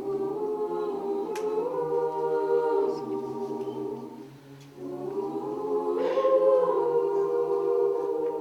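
A cappella vocal group singing long held chords without words over a sung bass line, in two phrases with a brief break a little before the middle.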